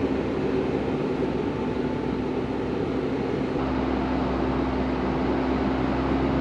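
Isuzu NPS 75/155 4x4 truck's diesel engine running under load, heard from inside the cab, a steady drone with a constant hum. About three and a half seconds in, the low rumble grows stronger.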